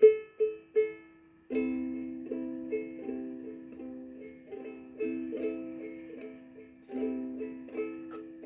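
Plucked-string instrument, ukulele-like, playing a slow, gentle tune. A few single picked notes come first, then a chord about a second and a half in and again near the end, with picked melody notes over them about every half second.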